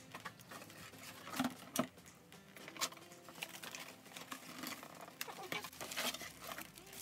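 Light rustling, crinkling and scattered small clicks of hands handling a gift: a thin wire string of lights and a wrapped artificial flower with crinkly wrapping and ribbon.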